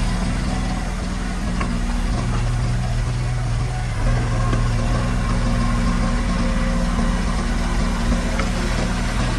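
Diesel engine of heavy earthmoving equipment, a bulldozer or dump truck, running steadily at a low, even pitch.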